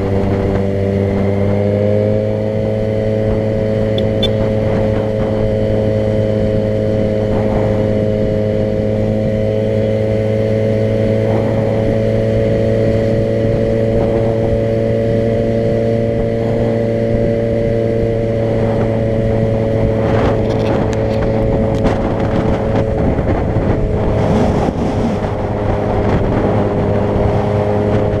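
Car engine running at a steady speed while driving, with road noise; the engine pitch rises slightly about two seconds in, then holds steady.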